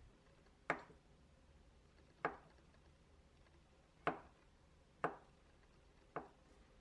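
Five sharp knocks on a hard surface, one to two seconds apart, each ringing briefly.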